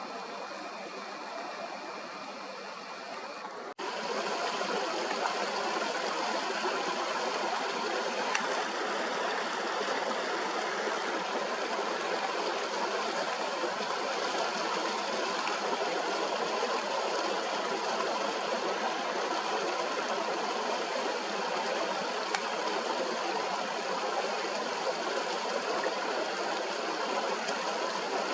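Fast-flowing mountain stream rushing over rocks, a steady wash of water noise. About four seconds in it cuts abruptly to a louder stretch of the same rushing water.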